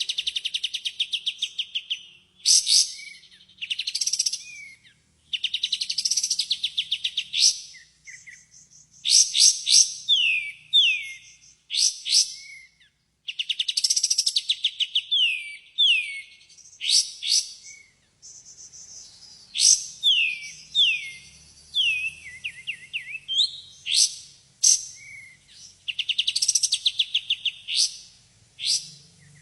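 Kapas tembak songbird singing, a lure recording meant to make caged birds answer. It repeats loud phrases of rapid trills and sharp falling whistled notes, with short pauses between them.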